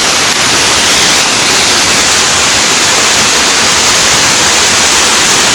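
Loud, steady rushing of a forest waterfall, an even hiss of falling water.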